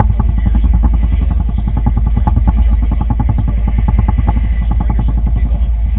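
A boat's engine running steadily, with a fast, even pulse.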